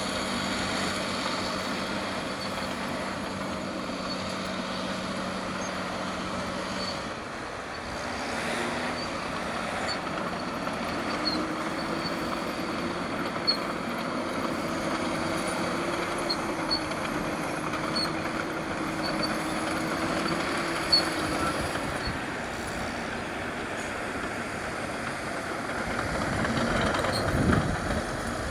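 Caterpillar D6R crawler bulldozer's diesel engine working under load while pushing dirt. The engine note holds steady, shifts to a higher pitch partway through, and dips near the end.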